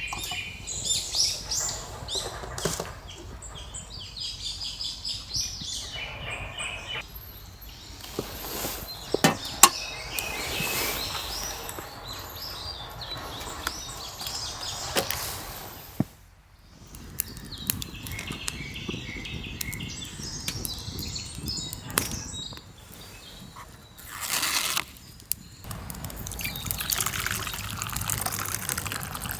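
Birds chirping in a forest, with scattered sharp clicks and knocks.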